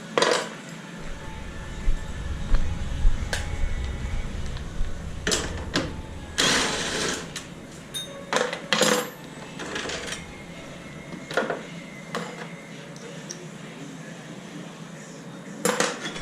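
Metal tools and parts clinking and knocking at irregular intervals, with a low rumble early on and a rushing noise lasting about a second, about six and a half seconds in.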